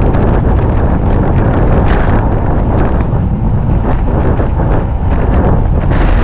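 Heavy wind buffeting on a GoPro Max camera's microphone while cycling, a steady loud rumble with no break.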